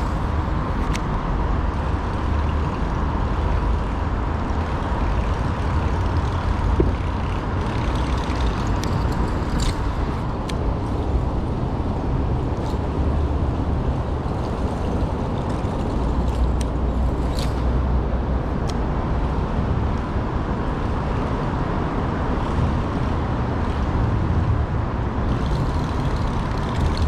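Wind buffeting an action-camera microphone, a steady rumbling rush, with a few faint ticks over it.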